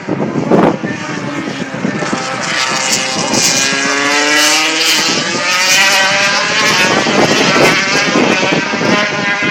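MotoGP racing motorcycle engines at high revs, their pitch rising and falling with throttle and gear changes, with a descending sweep in the middle as a bike slows or passes by.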